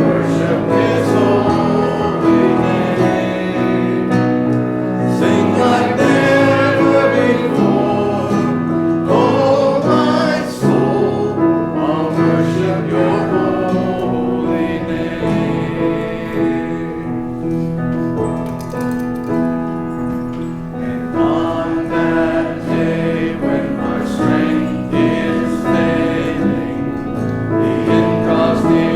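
Church music: many voices singing a hymn together, with instrumental accompaniment.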